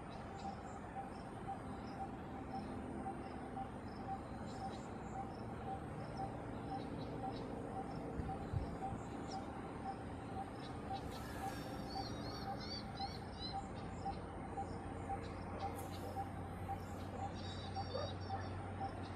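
Small birds chirping and calling in short high notes, with a few quick runs of notes. Underneath, a low note repeats steadily about three times a second.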